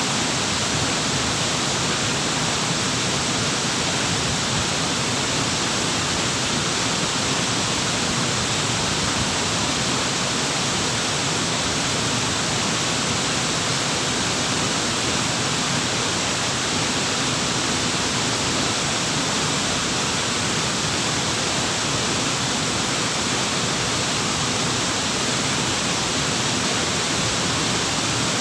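Waterfall rushing steadily: an even, unbroken hiss of falling water with no rise or fall.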